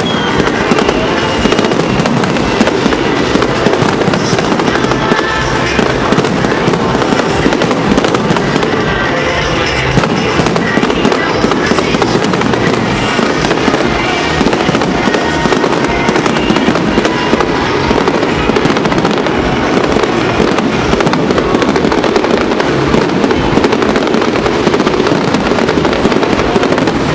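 Loud, dense, unbroken barrage of bursting firework shells and crackle from a fireworks display, with music playing underneath.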